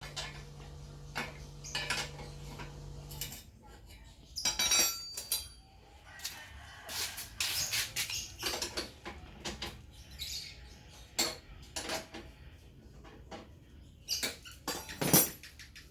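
Scattered metallic clinks, knocks and a squeak from hand tools and parts being handled while a motorcycle exhaust is fitted. A low steady hum underneath stops about three seconds in.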